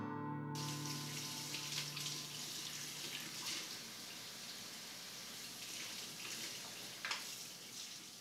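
Water running steadily, starting about half a second in as the last guitar note dies away, and slowly fading out toward the end.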